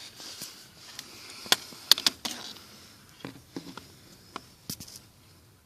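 Handling noise: a few sharp light clicks and soft rustling as hands and the camera move about under a dashboard.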